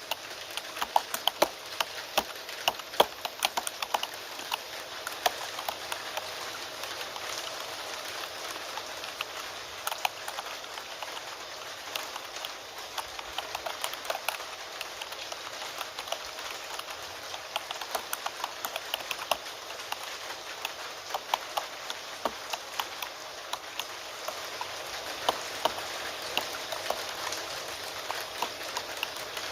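Keyboard typing, a quick irregular run of key clicks, over the steady hiss of rain. The clicks come thickest in the first few seconds and again near the end.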